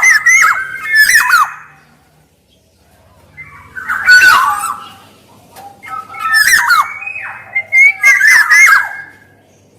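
Black-naped oriole (kepodang emas) calling in bursts of quick, harsh, sweeping notes. One burst comes at the start, then a pause of about two seconds, then three more bursts close together in the second half.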